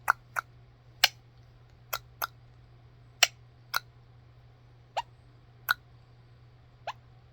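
Mini macaw making about ten short, sharp clicks, irregularly spaced.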